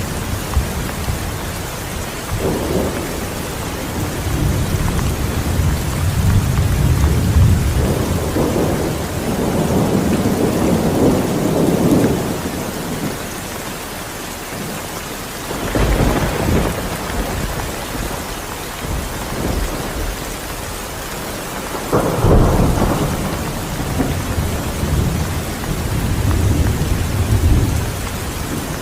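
Steady rain with thunder: a long rolling rumble through the first half, then a sudden clap a little past halfway and another about three-quarters through, each rolling on into a low rumble.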